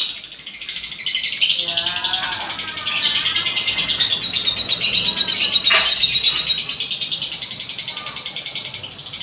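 Lovebird's ngekek: a long, very rapid chattering trill that runs unbroken for about eight seconds after a brief dip near the start.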